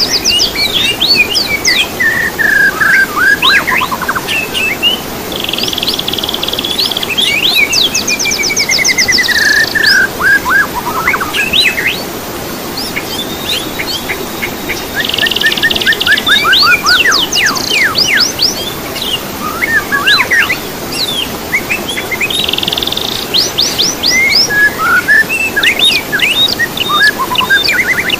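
Songbird song: a varied run of whistles, fast trills, down-slurred notes and buzzy rattles, with phrases repeating about every eight or nine seconds, as in a looped training recording for caged songbirds.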